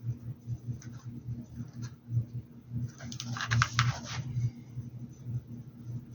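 A quick run of small clicks and scrapes, like objects being handled on a work surface, about three seconds in, over a low steady hum.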